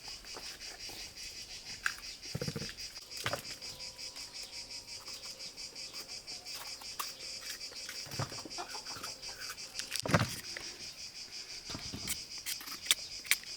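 Crickets chirping steadily in a high, pulsing chorus, with a few scattered knocks and clatters from handling.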